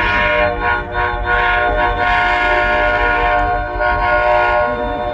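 Locomotive bell ringing in quick, even strokes over a steady, many-toned sound that fits a held train horn.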